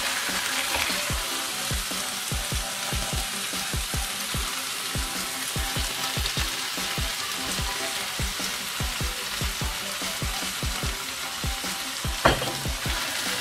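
Pisto vegetables sizzling in an electric frying pan while fried potato cubes are tipped in and stirred with a silicone spatula, with soft thuds from the stirring. One sharp knock comes near the end.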